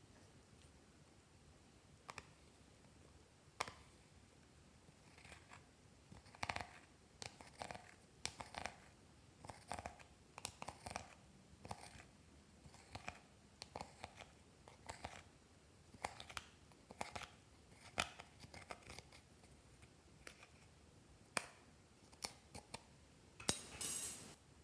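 Clear slime being squished and stretched by hand, making irregular sticky clicks and pops, with a longer crackling squelch near the end.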